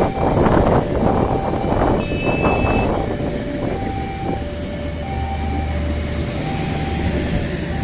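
Passenger train carriages rolling past over the rails with wheel clatter, the rumble easing after about three seconds as the end of the train goes by. A level-crossing warning alarm sounds alternating high and low tones, clearer once the train noise drops.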